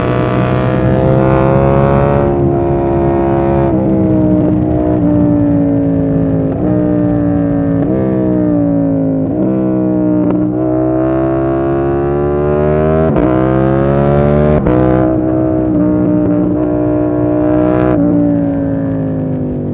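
KTM 890 Duke R parallel-twin engine being ridden, its revs rising and falling through the gears, with several quick breaks in pitch where it shifts or comes off the throttle.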